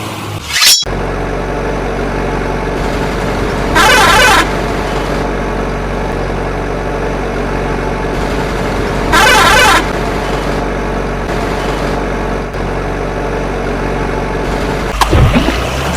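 Steady engine hum of a toy vehicle, with two short horn honks about five seconds apart.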